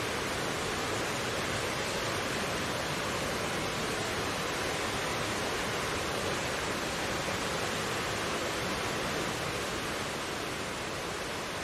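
Mountain stream flowing over rocks: a steady, even rushing of water.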